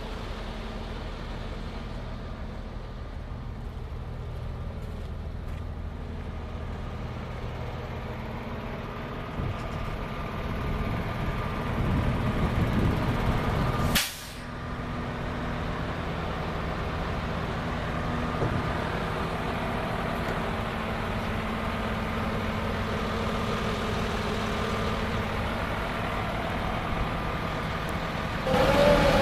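Diesel engine of a 2011 International WorkStar 7600 plow truck running steadily. It grows louder for a few seconds before a single sharp burst of air, like an air-brake release, about halfway through, then settles back to a steady run.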